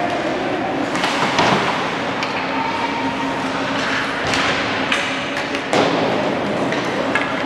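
Ice hockey game: a handful of sharp knocks and thuds from sticks, puck and boards, spread through, over a steady arena hubbub.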